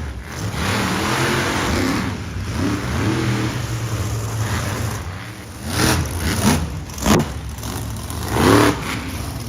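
Monster truck engine running, then revved hard in four quick bursts in the second half, each rising and falling in pitch.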